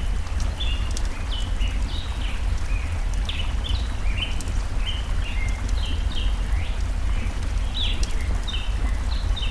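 Small songbird chirping steadily in short, quick notes, about two a second, over the constant low rush of a flowing forest stream, with faint scattered crackles of a campfire.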